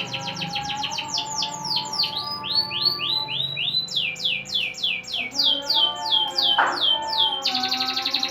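Domestic canary singing a long rolling song: fast trills of repeated downward-sweeping notes that switch to new trill types every second or two. A brief harsh rasp comes about two-thirds of the way through.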